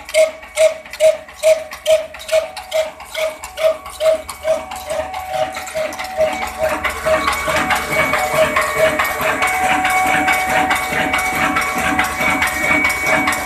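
Old kala engine, a slow-speed single-cylinder diesel, picking up speed. Evenly spaced beats at about two and a half a second quicken over the first six seconds, then merge into a faster, denser running sound with a steady whine.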